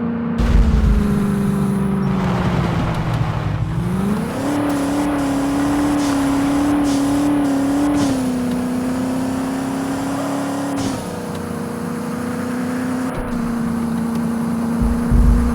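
Car engine heard from inside the cabin while driving, with a steady drone whose pitch sags over the first few seconds, climbs quickly about four seconds in as the engine speeds up, then holds and steps down a little twice. Low rumbling thumps come near the start and end.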